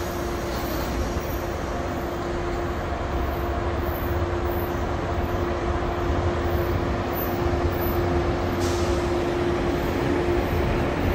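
Metro-North push-pull commuter train with a Shoreliner cab car leading, rolling into the station. A steady rumble of wheels and cars carries a steady hum and grows gradually louder as the train nears.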